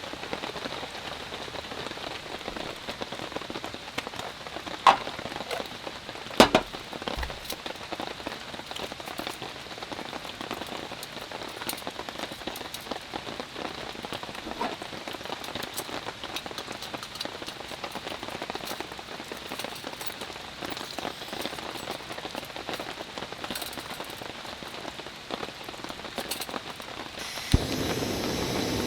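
Rain falling steadily, with many small drop ticks on a surface and two louder sharp taps about five and six and a half seconds in. Near the end the sound changes abruptly to a heavier, steady rush.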